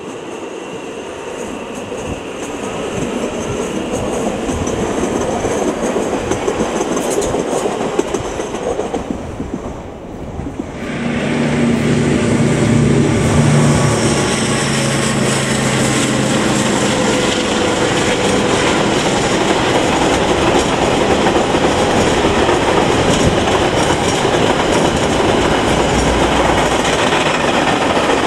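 An Auckland Transport electric multiple-unit train passing, its sound swelling over the first several seconds. About ten seconds in, a KiwiRail diesel locomotive's engine comes in as a low steady drone, leading a container freight train past. The wagons then roll by with a steady rumble and clickety-clack.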